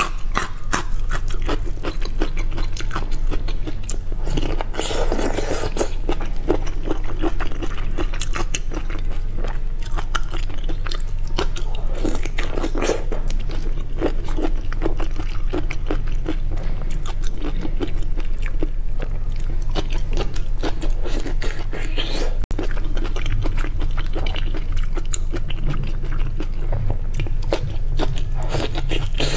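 Close-miked chewing and biting of peeled marinated shrimp under a chopped chili and garlic topping: many small, irregular wet crunches and clicks over a steady low hum.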